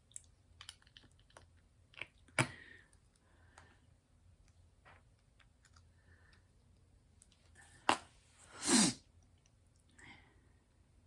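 Diamond-painting drill pen picking up resin drills and pressing them onto the sticky canvas: scattered small clicks and taps. Just before nine seconds in comes a single short, loud noise.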